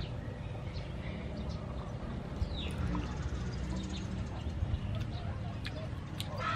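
Small birds chirping now and then, one call sweeping down in pitch about three seconds in, over a steady low background rumble.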